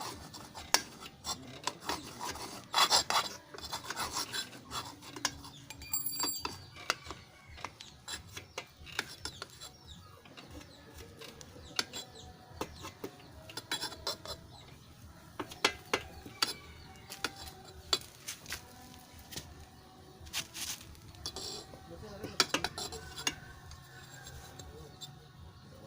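Hand work on a two-stroke motorcycle exhaust muffler during repacking: irregular metal scraping and rubbing with scattered clinks and taps, busiest in the first few seconds and again past the middle.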